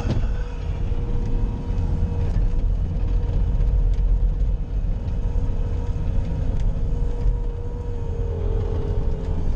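Bobcat skid-steer loader running steadily under work, a low engine rumble with a steady hydraulic-type whine over it.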